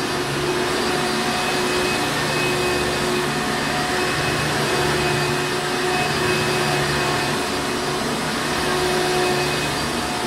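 Hoover Encore Supreme upright vacuum cleaner running steadily: an even whooshing motor noise with a constant hum.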